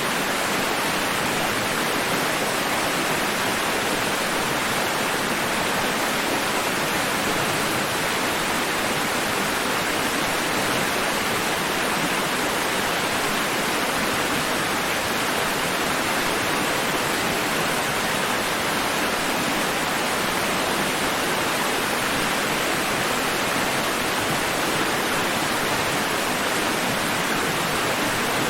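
Steady rushing water, a dense even hiss that holds at one level without any rise and fall.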